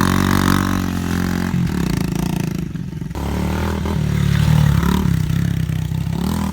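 Pit bike engine revving, easing off briefly about halfway through and then picking up again.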